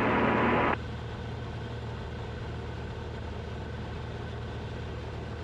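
A short burst of radio static about the first second, then the steady drone of a Cessna 172RG's engine and propeller.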